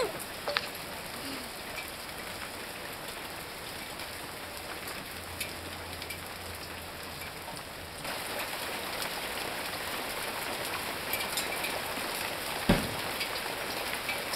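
Hail falling in a steady hiss of stones on hard surfaces, with scattered sharp clicks of single hailstones striking. It grows louder about halfway through, and a single thump comes near the end.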